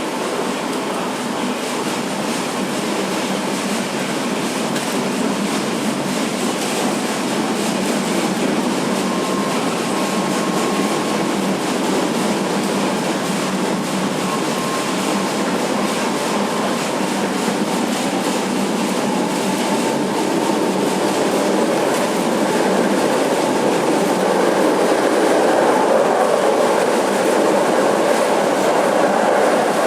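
Tram running on its rails: steady wheel and track noise with some clickety-clack, growing a little louder toward the end.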